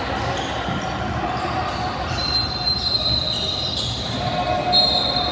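Gym ambience during a basketball game: a background of crowd and player voices with scattered thuds of a ball bouncing on the court. Two long, high-pitched steady squeals sound, one about two seconds in and a louder one near the end.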